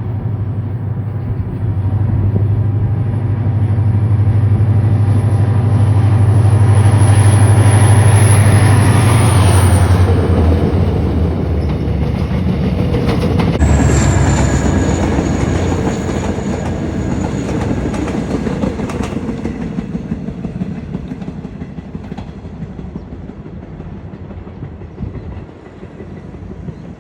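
Diesel-hauled Mugunghwa-ho passenger train passing on the Gyeongbuk Line: a loud, low engine drone that builds to its loudest about eight seconds in, changes as the train goes by, and fades away over the last ten seconds.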